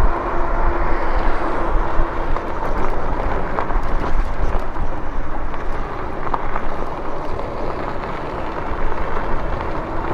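Steady wind rumble on the microphone and road noise from riding an electric bike, with a faint steady tone in the first couple of seconds.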